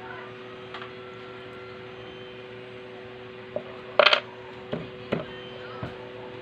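Light metallic clicks and knocks of tools and small metal parts being handled during sewing-machine repair, with one sharp, bright clink about four seconds in as the loudest, over a steady low hum.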